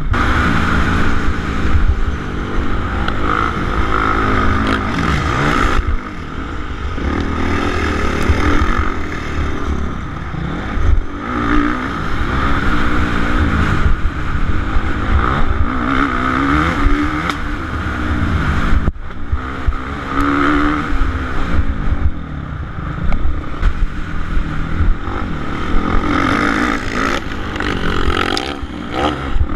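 Suzuki RM-Z450 motocross bike's four-stroke single-cylinder engine revving hard during a race, its pitch rising and falling every second or two as the throttle opens and closes, over a constant heavy rumble. The sound drops out for an instant about nineteen seconds in.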